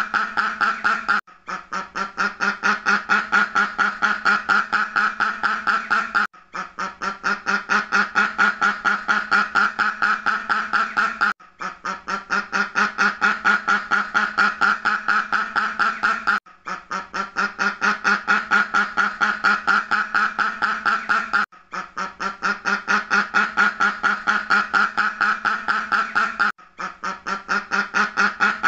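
Ducks quacking in a rapid, unbroken run of quacks. It is a loop of about five seconds that repeats, with a short break at each restart.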